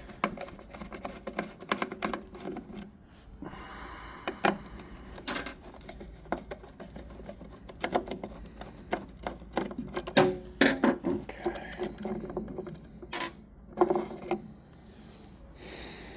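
Irregular clicks, taps and clatter of plastic and metal parts being handled, with a few short scrapes, as the mass airflow sensor is worked loose from the air intake.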